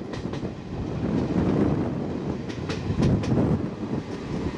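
Passenger train running on the line: a steady rumble of the coach, with a few pairs of sharp clicks as its wheels cross rail joints.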